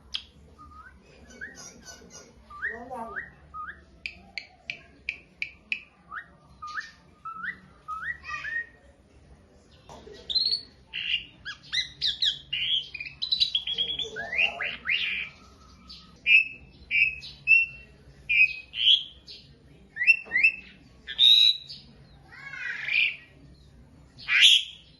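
Asian pied starling (jalak suren) singing a varied song of whistles, chirps and harsh squawky notes. The first half is softer, with runs of short repeated notes; from about ten seconds in the phrases grow louder and more varied.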